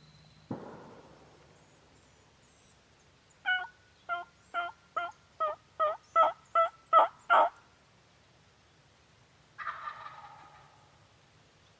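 Wild turkey calling: a series of about ten yelps, two or three a second, growing louder, then about two seconds later a short gobble. A sharp click or knock comes about half a second in.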